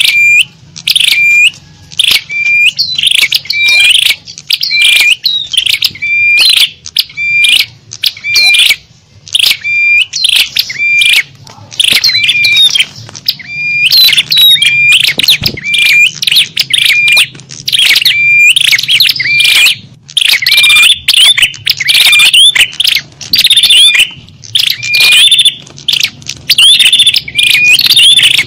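Small songbirds chirping and twittering rapidly, many short calls overlapping with hardly a pause: a lure-call recording made to draw small birds in.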